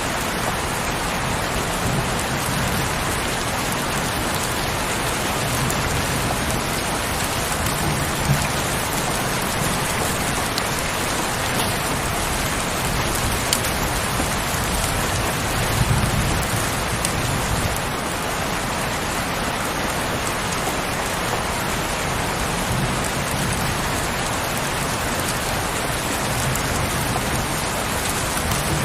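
Heavy rain falling steadily, a dense even hiss with a few sharper drop strikes now and then. A low rumble swells and fades about halfway through.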